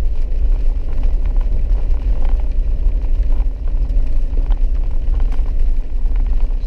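Four-wheel-drive vehicle driving on a wet dirt road: the engine runs steadily over a low rumble of tyres and road noise, with scattered light ticks.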